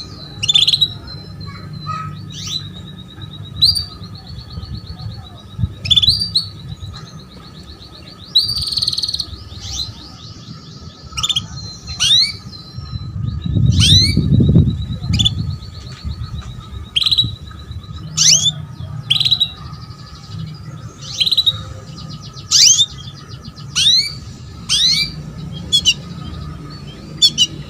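Female canary calling: short, sharply rising chirps repeated about once a second, with stretches of fast trilling between them, the kind of call used to stir a male canary into song. A low rumble lasts a second or two midway, over a faint steady hum.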